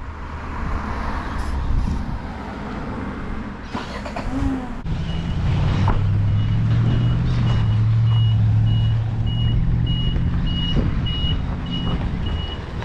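A truck's engine running, growing louder about five seconds in as a reversing beeper starts an even, repeating high beeping.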